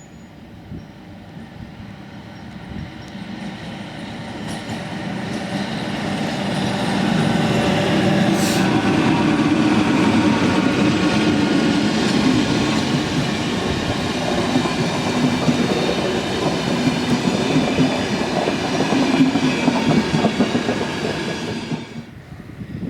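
A train approaches and runs past on the track, wheels clattering over the rail joints, with a steady tonal whine in the noise. It grows louder over about seven seconds, stays loud while the train goes by, then falls away suddenly near the end as the last car clears.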